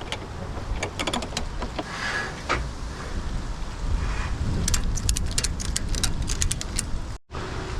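Wind buffeting the microphone as a steady low rumble, with scattered clicks, clinks and rattles of tools and gear being handled and stowed, bunched together a few seconds in.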